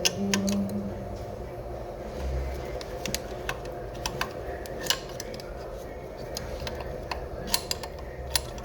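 Hand tools and metal parts clinking and clicking, with a cluster of sharp clinks near the end, over a steady low hum.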